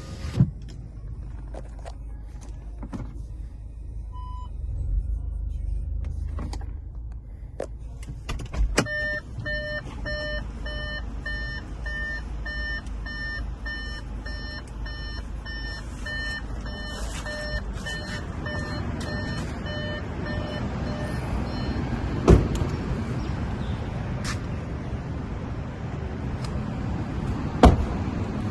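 A car's electronic warning chime beeps steadily about one and a half times a second for around twelve seconds, then fades out, over a low steady rumble. A few sharp knocks stand out, the loudest two in the second half.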